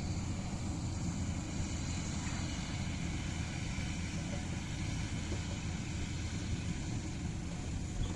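Preet 987 combine harvester running steadily while cutting paddy, a continuous low machine drone with a hiss over it.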